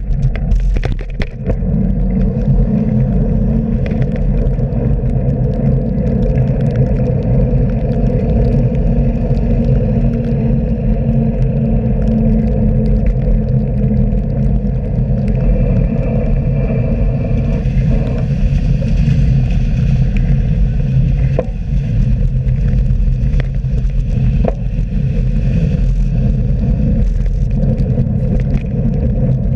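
Steady, loud road-and-traffic rumble heard from a moving bicycle, with scattered clicks and rattles.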